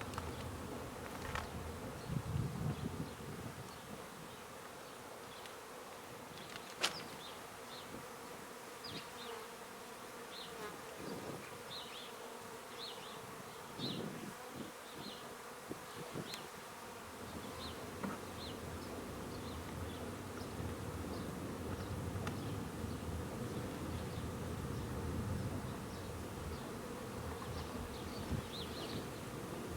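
Honeybees buzzing as a steady hum around a crowded, very active hive entrance. A sharp click about seven seconds in, and short high chirps recur throughout.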